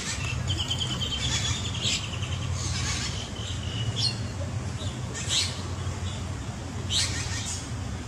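Small birds chirping, with a rapid high trill early on followed by short sharp chirps about every second, over a steady low hum.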